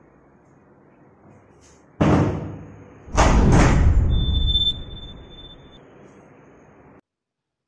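Horror-film sound-effect hits: a sudden booming impact about two seconds in, then a second, longer loud hit about a second later that fades out slowly, with a thin high tone ringing over it.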